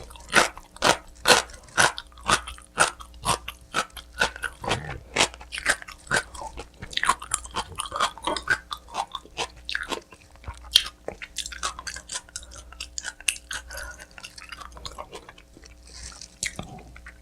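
Close-miked chewing of pizza: a steady run of crisp crunches, about two to three a second, as the crust is bitten and chewed.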